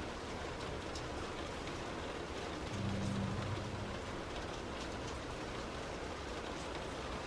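Heavy rain on a car as it drives, a steady hiss with scattered drop ticks. A low hum comes in briefly about three seconds in.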